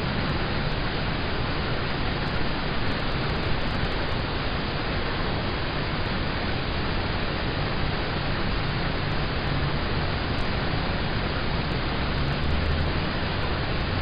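Steady rain falling on a car, heard from inside the cabin: an even hiss with a low rumble underneath.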